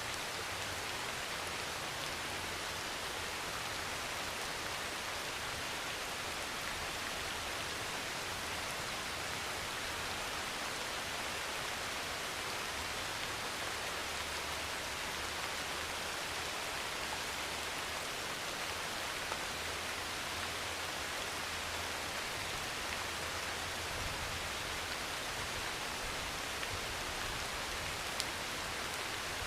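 Heavy rain pouring on a metal roof: a steady, even hiss of rain with an occasional sharper drop tick.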